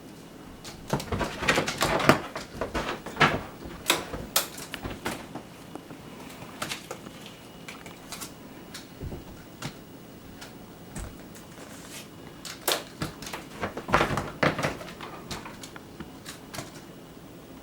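Cats pouncing and scrambling after a feather wand toy: two bursts of rapid scuffling taps and thumps from paws and claws, one starting about a second in and a second near the end.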